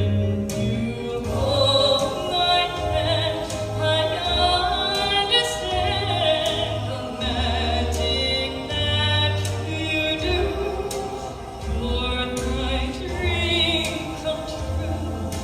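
A song sung with strong vibrato on held notes, over an accompaniment with a steady stepping bass line.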